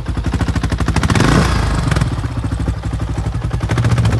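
Honda XR650R's big single-cylinder four-stroke engine running with an even, rapid beat, picking up briefly a little over a second in before settling back.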